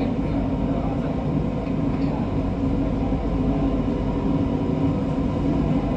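MRT Kajang Line Siemens Inspiro metro train heard from inside: a steady rumble with a constant low hum.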